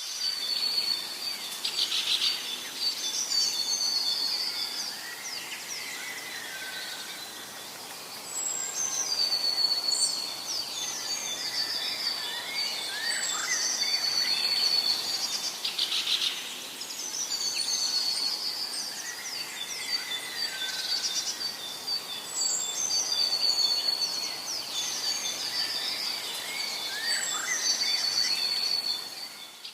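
Several birds singing in a forest, one repeating a high trilled phrase every few seconds among scattered chirps, over a steady hiss of background noise.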